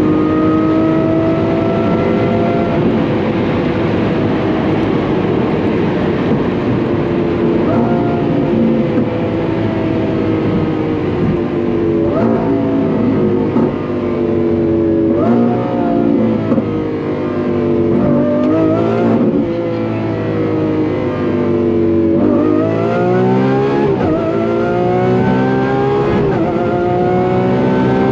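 Lamborghini Aventador SVJ's naturally aspirated V12, through an aftermarket F1 exhaust, heard from inside the cabin. Its pitch sags slowly as the car comes off speed, jumps up several times in the middle as it shifts down, then climbs steeply under full throttle in the last several seconds, cut back by quick upshifts.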